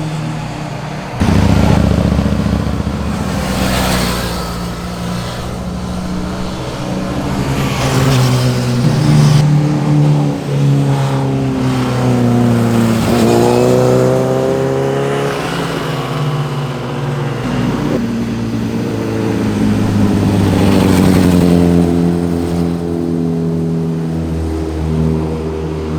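Sport motorcycles' exhausts revving hard and passing by, engine pitch climbing through the gears and dropping between shifts. One loud pass in the middle dips sharply in pitch as it goes by.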